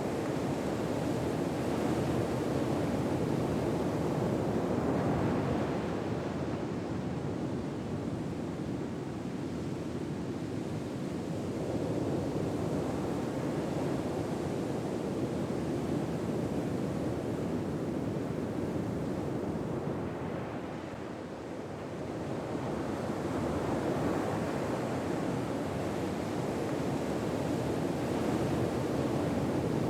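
Ocean waves washing ashore: a steady rush of surf that swells and ebs slowly, with softer lulls between the swells.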